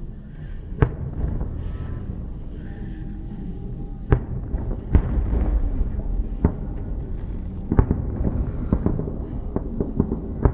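Fireworks going off: irregular sharp bangs of bursting shells, about eight of them, over a steady low rumble, with several bangs close together near the end.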